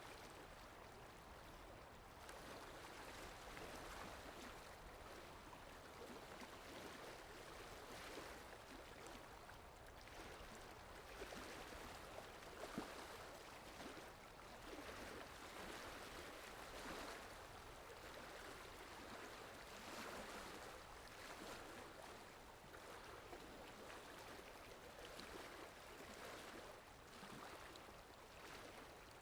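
Faint water sound effect: an even wash of running water swelling and easing every few seconds, with one short click about halfway through.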